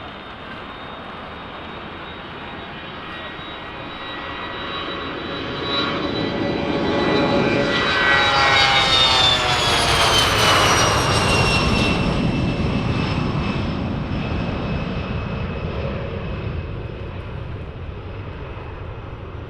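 Departing airplane's engines passing by: the sound builds for several seconds, is loudest about halfway through, and the engine whine drops in pitch as the aircraft goes past, then fades away.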